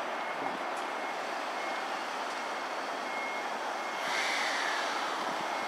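Keisei 3000-series electric commuter train braking as it pulls into the station, with a steady running hiss. About four seconds in it gets louder and a high whine slides down in pitch.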